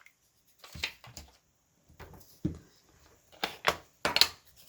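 A series of short, sharp clicks and taps from paper and crafting tools being handled on a work table, spaced irregularly and loudest near the end.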